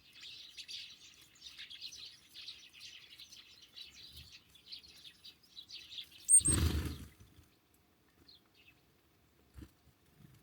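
Small songbirds chirping and twittering continuously. About six seconds in comes a single loud thump lasting under a second, after which the chirping almost stops, with only a few faint calls left.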